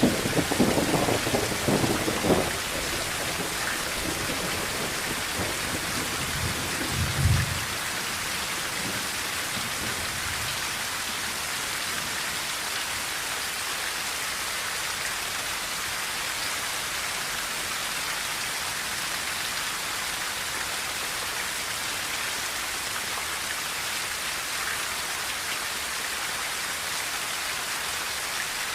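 Rain falling steadily on a tin roof, with thunder rumbling over it in the first couple of seconds and again about seven seconds in.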